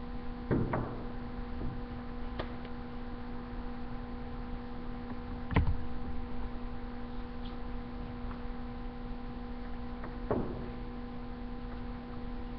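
Steady electrical hum with evenly spaced overtones, broken by three soft knocks or clicks about five seconds apart.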